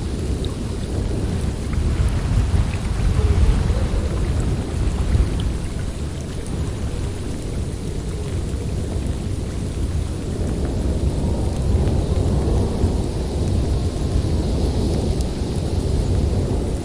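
Snowstorm wind rushing through a forest: a deep, steady rumble that swells a couple of seconds in and again past the middle, with a thin higher hiss near the end.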